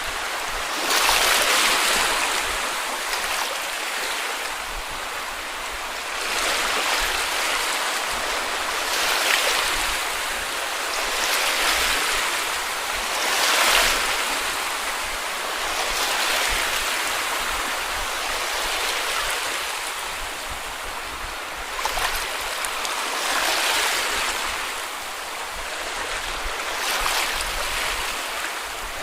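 Small sea waves washing up onto a beach, each wash swelling and fading every two to three seconds.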